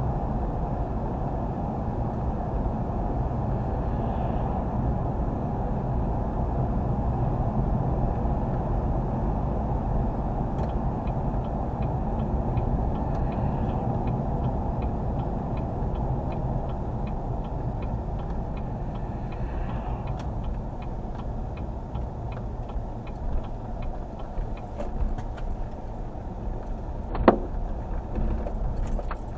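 Car engine and exhaust running steadily while driving, a continuous low rumble. From about ten seconds in, a regular ticking about twice a second sits over it, and a single sharp click comes near the end.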